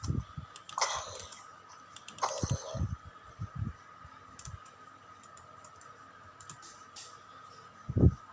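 Scattered taps and low knocks, several in the first few seconds, then a lull and another knock near the end, over a faint steady high tone.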